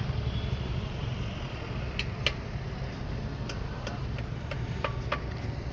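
Scattered sharp metallic clicks and taps, about seven over the second half, over a steady low hum.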